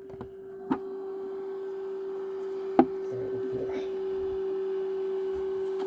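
Steady electrical hum from a running appliance, with two sharp clicks about two seconds apart, the second louder.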